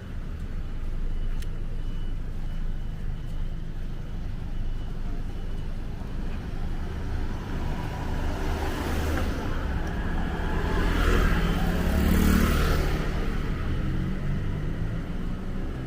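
City road traffic running steadily, with a vehicle passing close and growing louder about nine seconds in, loudest around twelve seconds, then easing off.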